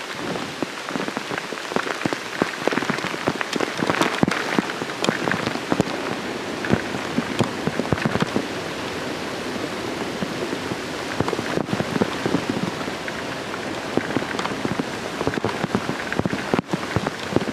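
Heavy typhoon rain pouring steadily, with many sharp drop strikes on a nearby surface scattered through it.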